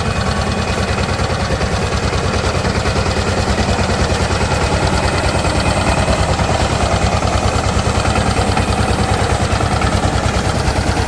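Single-cylinder diesel engine of a power tiller running steadily, with an even, rapid beat of firing strokes.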